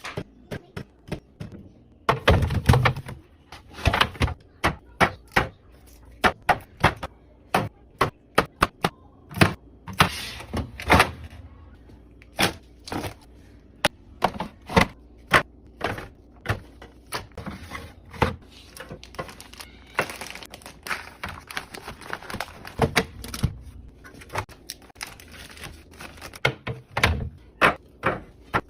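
Containers and packaging being handled and set down while restocking a refrigerator: many irregular light clacks and taps, with a few heavier thunks.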